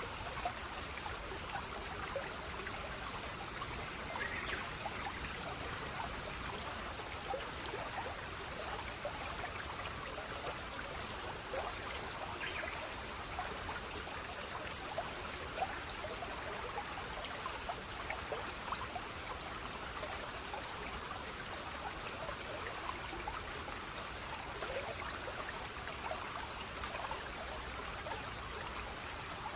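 Small stream trickling steadily, with many small bubbling plinks and splashes.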